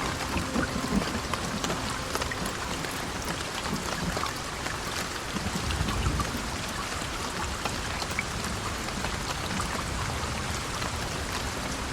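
Heavy rain falling steadily, an even hiss with scattered sharp drip and tick sounds.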